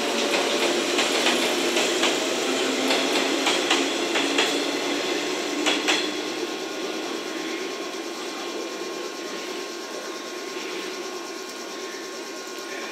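JR West 117-series electric train moving off along the platform track, its wheels clicking over rail joints over a low motor and gear whine that slowly rises as it gathers speed. The clicks stop about six seconds in, and the train sound fades into a steady station hum.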